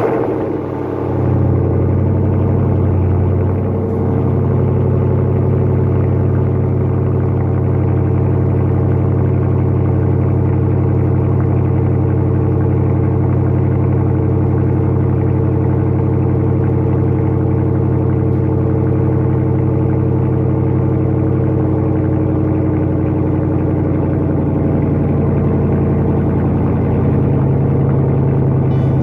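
Dodge Charger R/T's 5.7-litre HEMI V8 catching on start-up, surging briefly in the first few seconds, then settling to a steady idle heard from the exhaust. It is the first start after an oil change.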